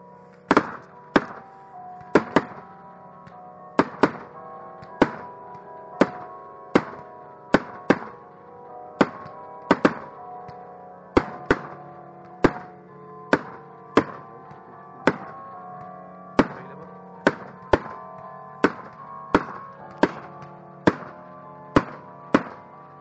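Slow music with long held notes, over which fireworks are fired one at a time, each a sharp report, coming irregularly about every half second to a second.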